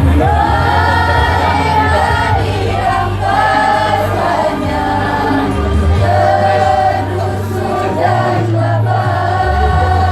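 A school choir singing in several voices, with a loud low bass line under the voices.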